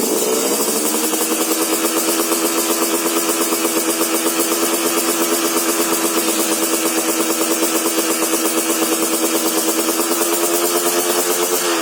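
Yamaha RX King two-stroke single-cylinder engine, fitted with an aftermarket 'telo' racing exhaust, running at a steady idle with an even, pulsing exhaust note. Its pitch rises slightly in the first second, then holds.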